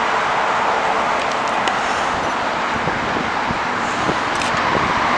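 Steady, loud roar of a jet airliner's engines, with a few faint clicks over it.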